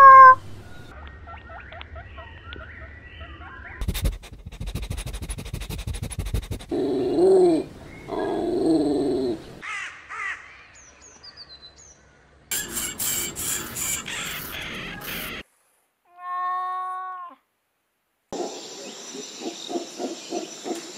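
A string of separate short animal calls and chirps edited one after another, each a different clip, with brief gaps between them.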